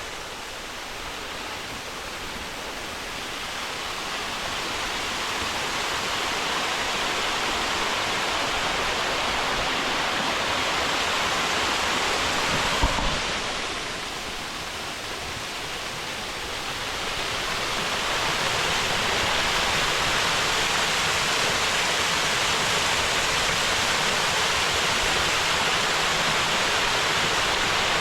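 Waterfall rushing steadily, its roar swelling as the falls are approached, dipping briefly in the middle and then rising again. A single short knock comes a little before the middle.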